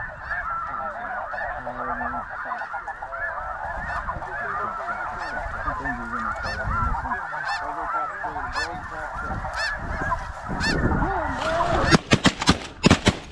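A huge flock of snow geese calling overhead, a dense, unbroken din of overlapping honks. Near the end, several loud shotgun shots in quick succession.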